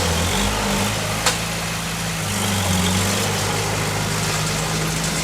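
Heavy diesel engine of a bulldozer running steadily at low revs, with one sharp clack about a second in.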